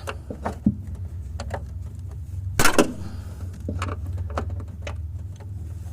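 Flathead screwdriver clicking and scraping against the metal retaining tab of a trunk strut mount as it is pried up, with one loud clack a little over two and a half seconds in. A steady low hum runs underneath.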